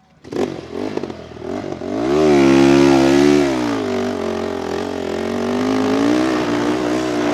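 A vehicle engine revs up sharply about two seconds in, holds high for a second or so, drops back and then keeps running steadily.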